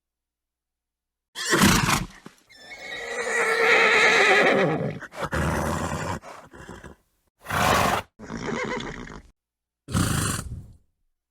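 Horse whinnying once, a long call of about two and a half seconds that drops in pitch at the end. Several short snorts come before and after it, with dead silence between them.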